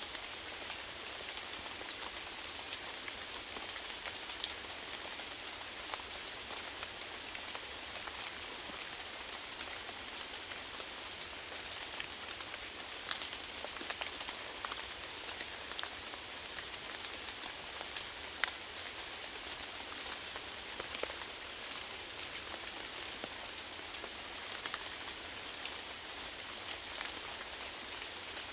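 Steady rainfall: a constant patter of rain on a surface, with scattered individual drops ticking out.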